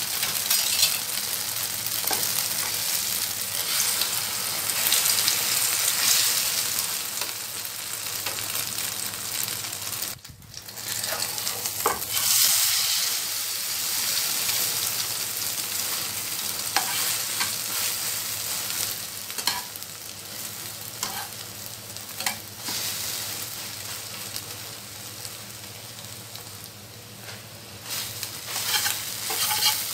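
Beaten egg with chopped onion and spices frying in hot oil, with a steady sizzle. The sizzle drops out briefly about ten seconds in, and a few short clicks come later.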